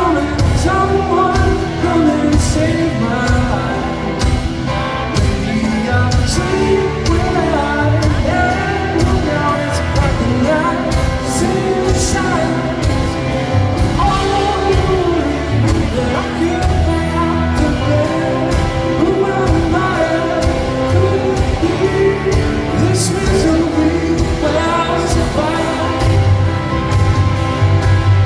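Live rock band playing loud and continuously, with drums keeping a steady beat under guitars and a voice singing without clear words.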